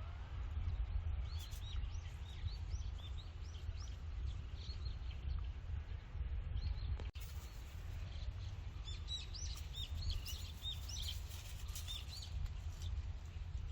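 Small birds chirping in quick series of short, high notes, in two busy spells, one in the first few seconds and another from about nine to twelve seconds in, over a steady low rumble.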